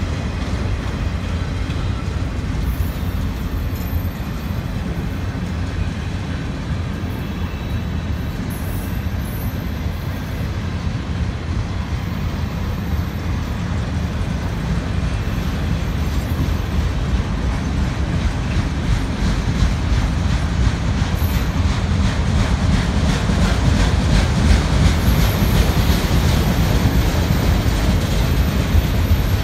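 Freight train of autorack cars rolling past on the rails: a steady low rumble of wheels on track with clattering, growing a little louder in the second half.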